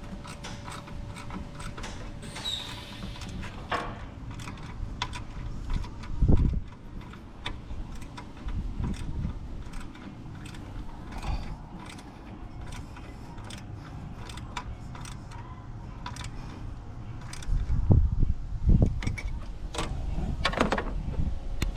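Workshop clatter of hand tools and metal car parts being handled: scattered clicks and clinks, with heavier dull knocks about six seconds in and again in the last few seconds.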